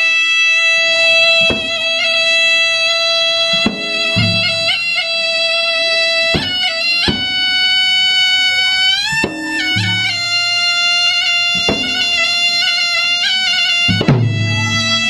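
Traditional Makassar gendang ensemble music: a reed pipe plays a long held melody with an upward slide about nine seconds in, over sharp drum strokes and deep drum thumps every few seconds.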